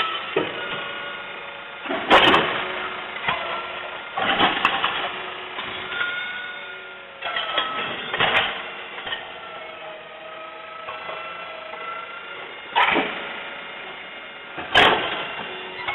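Garbage truck working, its engine and machinery running with a steady whine under about six loud bangs and clatters.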